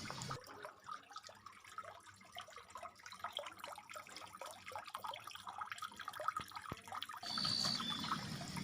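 Faint background ambience between lure calls: scattered soft ticks and trickling. About seven seconds in, a faint hiss and a high steady tone join.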